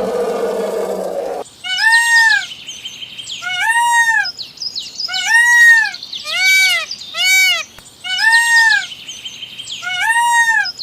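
A bird calling: seven clear, arched whistling calls, each rising and falling in pitch with several overtones, two of them in a quick pair. For the first second and a half a lower, rougher animal sound plays and then cuts off abruptly.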